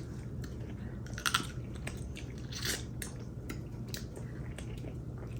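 Close-up eating sounds from a seafood boil: chewing and biting with wet squishes and a few sharp crunches, the loudest about a second and a quarter in and again near three seconds.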